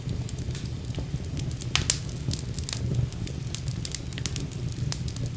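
Wood fire burning in a fireplace, with a steady low rumble and frequent sharp crackles and pops.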